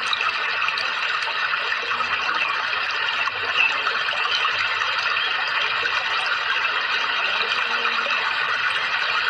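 Steady rushing water, an even hiss with no pauses.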